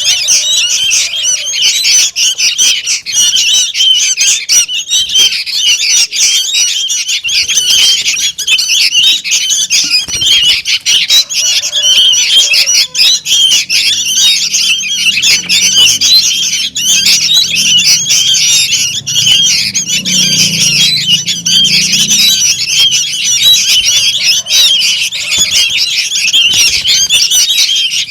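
A brood of young sooty-headed bulbul chicks calling noisily and without pause: a dense chatter of short, high begging calls.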